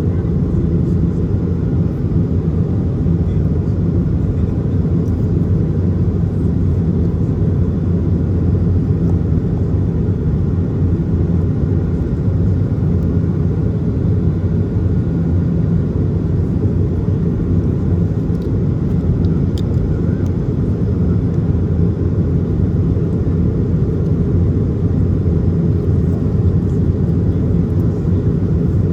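Cabin noise of an Airbus A220 in flight: a steady, low-pitched rush of airflow and its Pratt & Whitney geared turbofan engines, unchanging in level.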